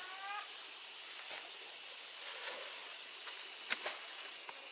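Outdoor background with a steady high-pitched hum, like insects, broken by a few sharp knocks about a second in and twice near three and a half to four seconds. A short rising voice or call sounds right at the start.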